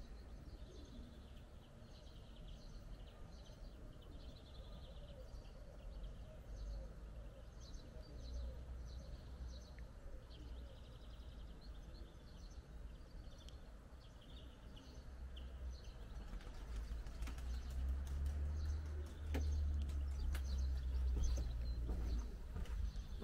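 Small birds chirping repeatedly, with a pigeon cooing softly underneath. From about two-thirds of the way in, a low rumble grows and a scattering of sharp clicks joins it.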